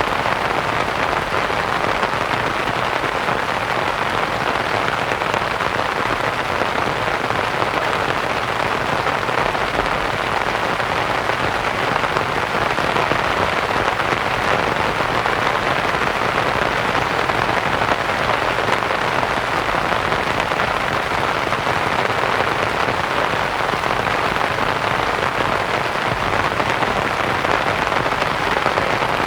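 Steady rain pattering on a canvas tent, mixed with an even white-noise hiss.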